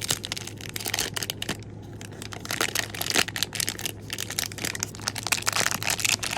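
Packaging wrap crinkling and crackling as it is handled and pulled away from a small nail stamper, a dense run of irregular crackles.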